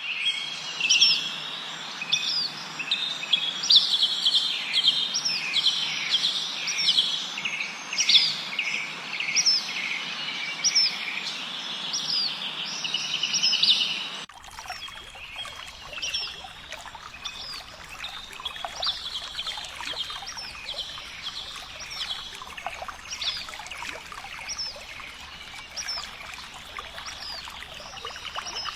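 Many small songbirds chirping in a dense chorus of short, repeated notes over a steady hiss. About halfway through it cuts abruptly to a thinner chorus of chirps with a low rumble underneath.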